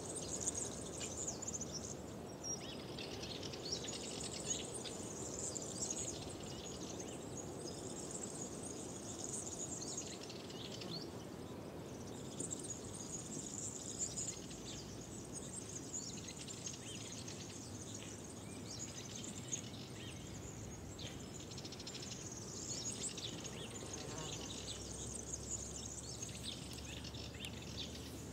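Spring birdsong in the countryside: high chirps and trills coming and going in spells over a steady low background noise.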